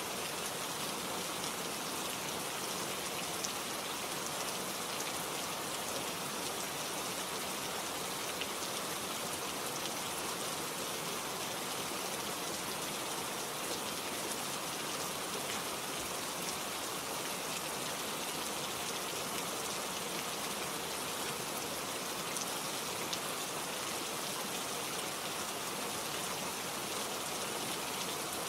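Steady rain with individual drops pattering on leaves and petals: an even hiss with faint scattered drop ticks.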